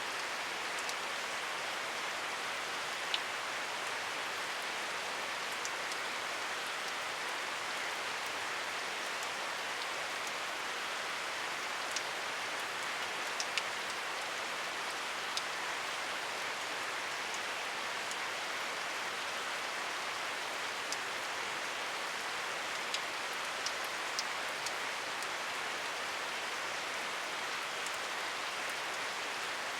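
Steady rain falling, a constant even hiss with occasional sharper drop ticks scattered through it.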